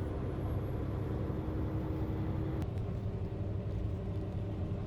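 Truck engine and road noise droning steadily inside the cab while driving. A faint steady tone in the drone drops out about halfway, with a light click.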